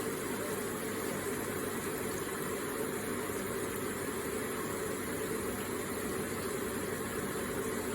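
Electric water feature running: a steady, even wash of flowing, trickling water.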